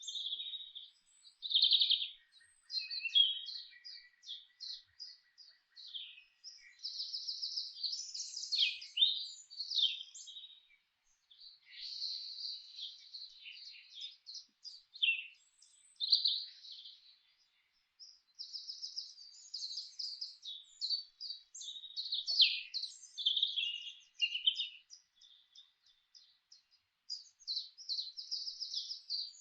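Songbirds singing in a forest chorus: overlapping chirps, whistles and fast trills, with a few short pauses.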